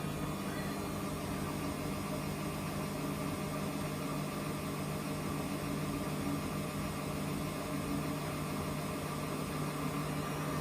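Samsung washing machine running a 95 °C boil-wash cycle, giving a steady machine hum.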